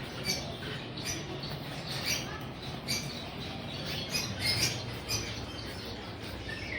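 Many small caged songbirds chirping and squeaking in quick, irregular short calls over a steady low background murmur.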